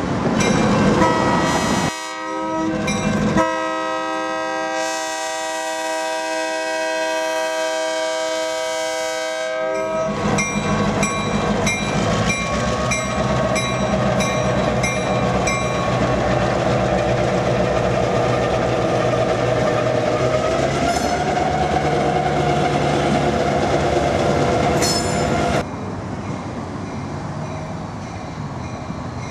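Diesel freight locomotive horn sounding one long chord-like blast. It is followed by a grade-crossing bell ringing about twice a second as a locomotive rolls past, its diesel engine running over the clatter of the wheels. The sound drops off suddenly near the end.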